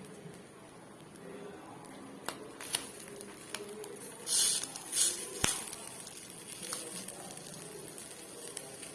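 A metal spoon or spatula scrapes and taps on a dosa griddle (tawa), with a few sharp knocks and short scrapes, over a low sizzle from egg and chapati cooking on the hot griddle.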